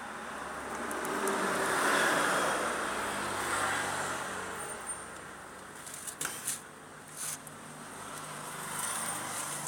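A passing motor vehicle, its noise swelling to a peak about two seconds in and fading over the next few seconds, followed by a few faint clicks.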